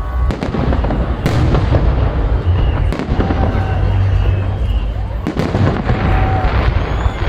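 Fireworks salute bursting: sharp bangs every second or two over a continuous crackle and low rumble of further shells.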